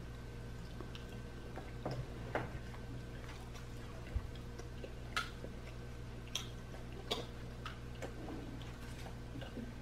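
Quiet eating sounds from two people eating pizza: irregular soft clicks and ticks of chewing and mouth noises, with small taps, over a steady low hum.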